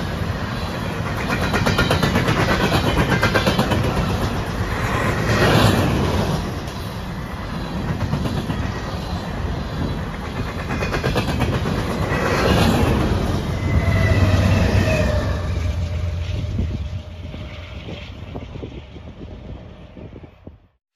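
Empty steel coal gondolas of a freight train rolling past close by: a heavy rumble of wheels with a continuous clatter of clicks over the rail, swelling twice as trucks pass, and a high wheel squeal partway through. The sound fades away as the last cars go by, cutting off just before the end.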